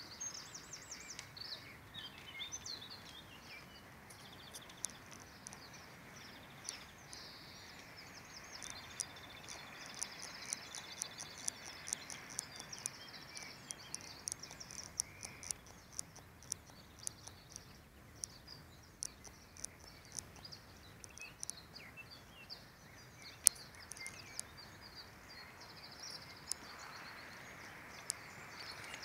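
Birds singing in high trills and whistles over a faint steady outdoor hiss, with scattered short sharp ticks.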